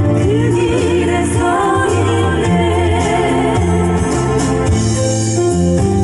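Female classical voices singing a Korean pop song in harmony with vibrato, over a keyboard accompaniment of sustained chords and a bass line. The voices drop out about halfway and the accompaniment carries on.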